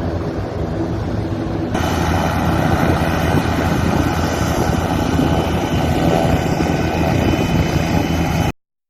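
Helicopter running, with a steady rotor and engine hum and a high turbine whine above it. About two seconds in it turns suddenly louder and brighter, and it cuts off abruptly near the end.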